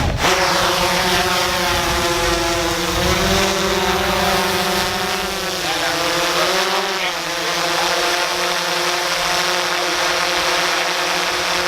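Small single-cylinder four-stroke dirt bike engine, a Honda XR70, running steadily under way, its pitch shifting a few times with the throttle around the middle.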